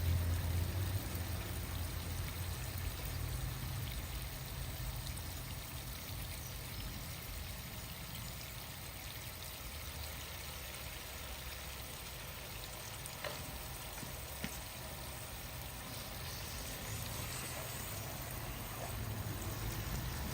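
Water running steadily in a continuous even rush, as when a muddy toy vehicle is washed, easing off a little in the middle.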